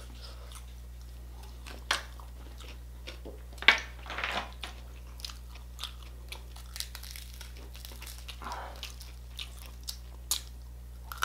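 Close-miked chewing and biting into crispy pata (deep-fried pork knuckle), with scattered crunches and clicks of the crisp skin; the sharpest crunch comes a little under four seconds in.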